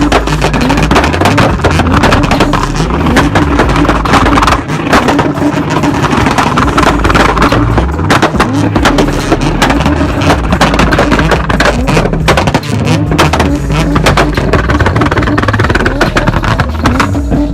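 Several modified cars revving hard at once, their engines repeatedly climbing and dropping in pitch over one another, with many sharp exhaust pops and bangs from backfires. Near the end the revs fall away.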